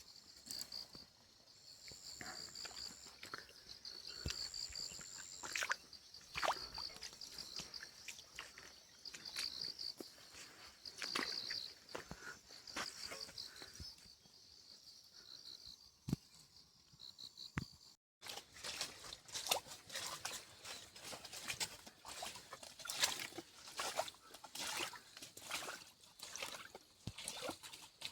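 Footsteps crunching and scuffing along a rough trail, many short irregular steps. A high repeated chirping sounds over them for the first half and then stops, and after a brief break the steps come thicker and closer together.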